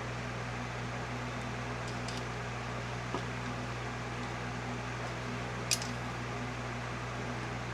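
Electric fan running with a steady hum and airy noise. A small tick about three seconds in, and a sharp click a little before six seconds in from tools or parts being handled.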